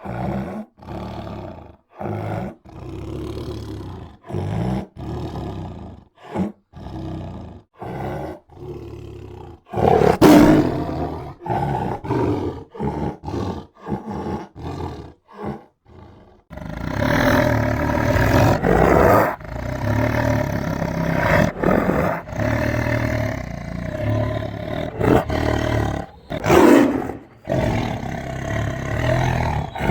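Tiger roaring and growling: a run of short roars and snarls with brief pauses between them, then from about halfway through an almost unbroken stretch of louder roaring.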